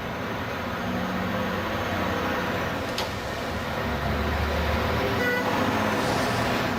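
Old car engines running with a steady low rumble, and a brief higher-pitched tone about five seconds in.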